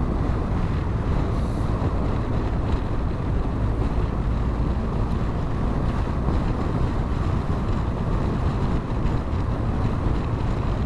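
BMW R 1250 GS boxer-twin engine running steadily at cruising speed, mixed with wind rushing over the microphone.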